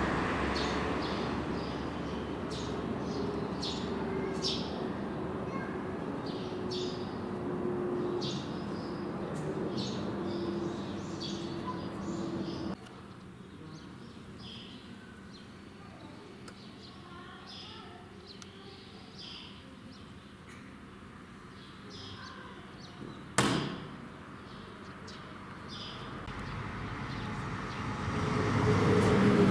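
Outdoor ambience with small birds chirping again and again over a low steady hum. The hum and chirping drop away suddenly about halfway through. One sharp knock comes about 23 seconds in, and a rush of noise rises near the end.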